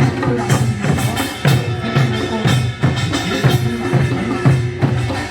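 Korean folk music from a live performance, with drum strokes falling about twice a second over low pitched tones.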